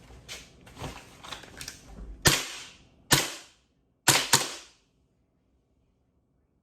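Sig Sauer ProForce M17 airsoft pistol firing: a few light clicks, then four sharp shots, the last two in quick succession, each with a short ringing tail, before the sound cuts off.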